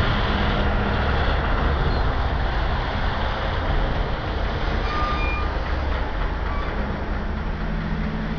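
Freight train of autorack cars rolling past, a steady rumble of steel wheels on rail, with a short high squeal about five seconds in.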